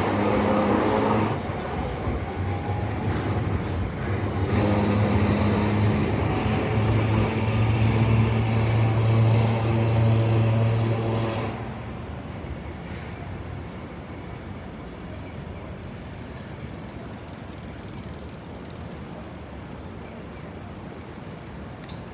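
Streetcar running with a steady electric motor hum, louder near the middle, then falling away about halfway through to a quieter, even street noise.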